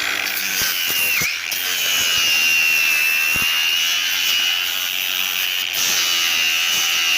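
Power grinder running at speed with a steady high whine, grinding the pool surface down to prepare it for a fiber patch; the pitch dips briefly about a second in as it bites under load.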